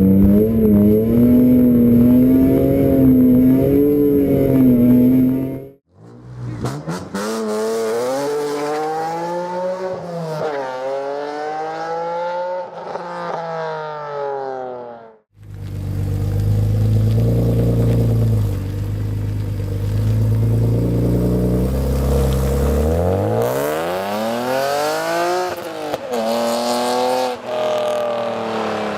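BMW E46 engines and exhausts revving hard, the pitch climbing and dropping repeatedly as the cars accelerate and shift, in three separate clips that cut off abruptly.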